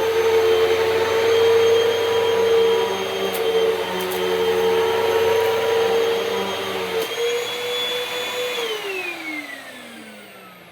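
Hoover Pet Max Complete upright vacuum running with a steady motor whine and a low hum beneath it. About seven seconds in, the low hum cuts out and the whine rises slightly, as the brush roll shuts off when the vacuum is set upright. Shortly after, the motor is switched off and winds down in a falling whine.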